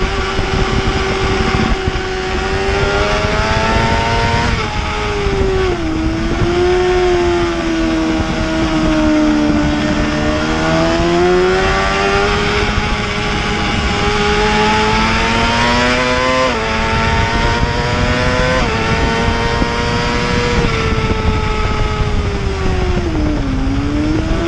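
Racing superbike engine at speed, its note rising and falling continuously with a few sudden steps in pitch as it changes gear, over steady rushing noise.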